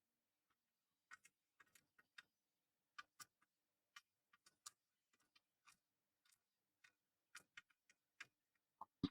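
Near silence broken by faint, irregular small clicks and taps, one or two a second, over a faint steady hum, with one sharper click at the very end.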